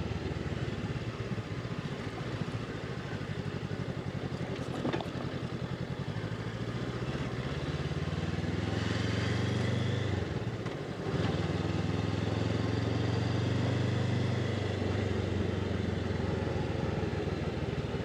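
Honda CB500X motorcycle's parallel-twin engine running under way, its revs climbing for several seconds. About ten seconds in there is a brief drop, then the engine pulls steadily again.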